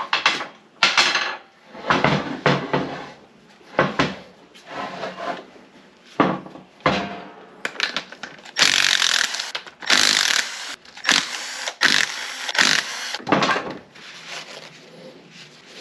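Metal parts of an NP205 transfer case knocking and clanking during teardown, then about five short, harsh bursts from a power tool in the second half.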